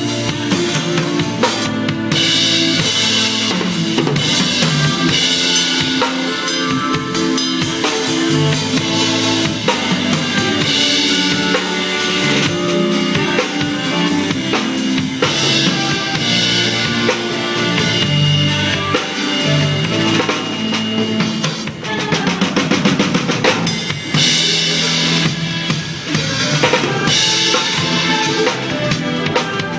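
Drum kit with kick, snare and cymbals played along to a full band recording with bass and melody lines. About three-quarters of the way through the drums break into a quick run of strokes.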